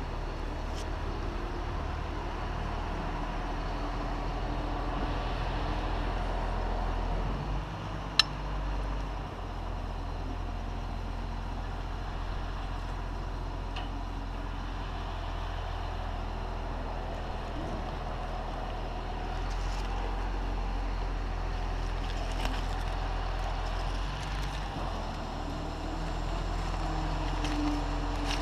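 Large engine running steadily at a constant speed, with one sharp click about eight seconds in.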